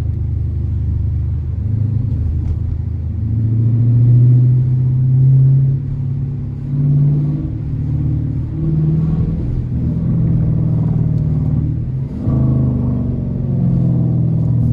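Dodge R/T's 5.7-litre HEMI V8 engine rumbling on the move. The engine note climbs several times under acceleration and eases off in between.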